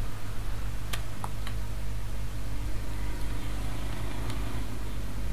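Steady electrical hum and fan noise, with a few faint, light clicks about a second in and again near the end.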